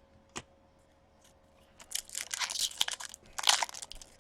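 A hockey card pack wrapper crinkling and tearing as it is ripped open: a single click about half a second in, then a run of loud crinkles and rips in the second half.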